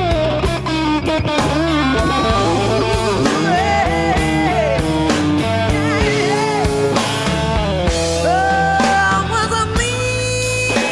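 Blues-rock band playing: a lead guitar plays bent, wavering notes over bass and drums.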